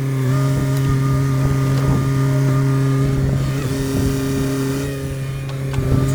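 Sany SY50U mini excavator's diesel engine running at a steady speed, with irregular low rumbles from the machine's work underneath.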